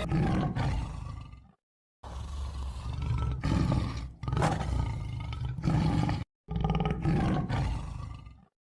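Deep roaring in four separate bursts of about two seconds each, every one cut off abruptly by dead silence.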